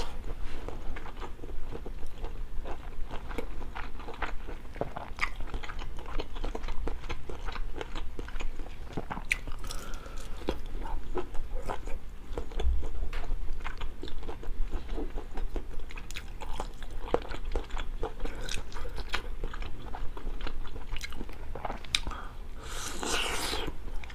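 Close-up eating sounds: biting and chewing food, with many small crunches and clicks, and a brief rustling hiss near the end.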